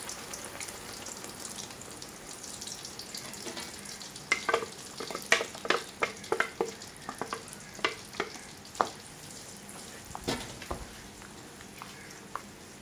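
Blended spice paste sizzling in hot oil in a wok, a steady frying hiss, with a run of sharp clicks and knocks through the middle.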